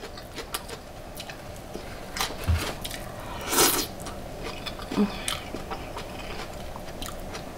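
Crunching and chewing of raw purple cabbage slaw, with irregular crisp bites and one louder crunch about three and a half seconds in.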